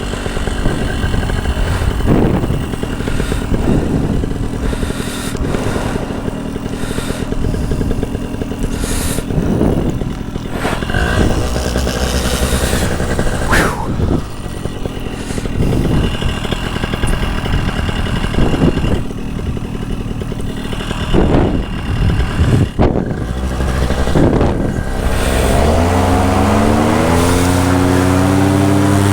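Wind buffeting the microphone, with clattering of gear. About 25 seconds in, a paramotor engine starts, its pitch rising as it spins up, then settles into a steady idle.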